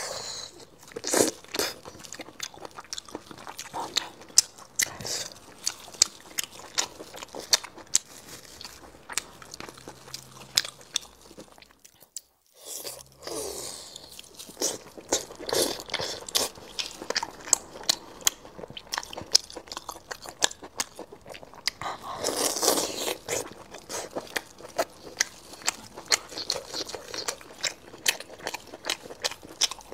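Close-miked crunchy biting and wet chewing of chili-coated lamb tripe, with many sharp crunches. The sound cuts out for a moment about twelve seconds in.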